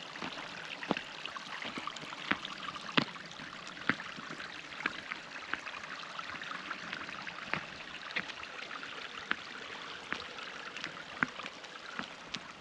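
Water running steadily from a partly frozen waterfall, with sharp irregular ticks about once a second.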